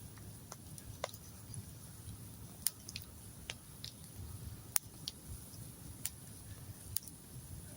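Campfire crackling: sharp irregular pops and snaps from the burning wood, spaced about a second apart, over a low steady rumble.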